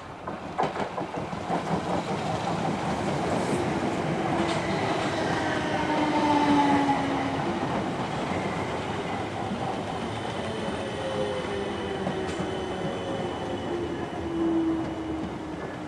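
A train running past on the rails, with wheels clicking over rail joints in the first couple of seconds. A steady rumble follows, with whining tones that fall in pitch, loudest about six to seven seconds in.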